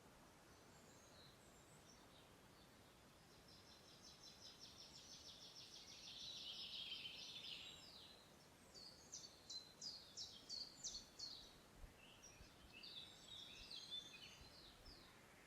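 Faint songbird song over quiet forest background. A fast trill swells in about four seconds in, then comes a run of separate sharp falling notes, then a shorter jumbled phrase near the end.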